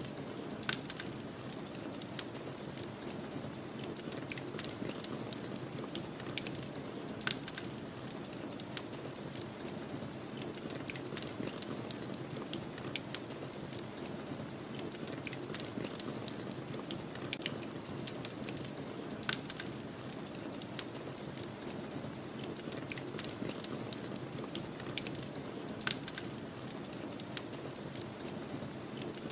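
Wood fire crackling, with frequent irregular sharp pops and snaps over a steady low rush of snowstorm wind.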